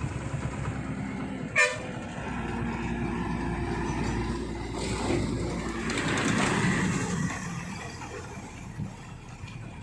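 Heavy truck's diesel engine running as it turns a hairpin bend, with a short horn toot about a second and a half in; the engine grows louder a few seconds later, then eases off.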